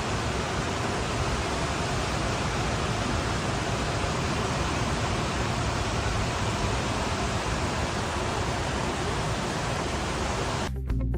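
Steady rushing noise of water, even and unbroken, cut off sharply near the end by music.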